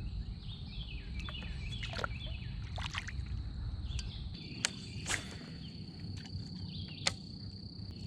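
Lakeside ambience: a steady high-pitched insect buzz, strengthening about halfway through, over a low rumble of wind and water. Short chirping calls come in the first couple of seconds, and a few sharp clicks and knocks are scattered through.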